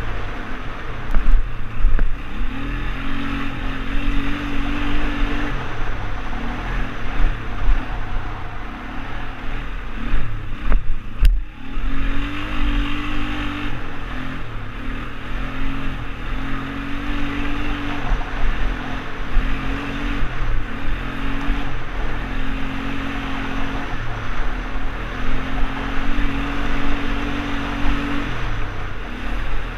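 ATV engine running while being ridden, its pitch rising and falling with the throttle, with a brief let-off about eleven seconds in.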